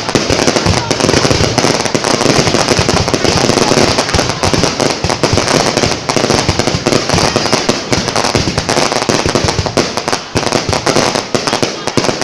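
Fireworks going off in a rapid, continuous barrage of overlapping pops and crackles, thinning to more separate bangs near the end.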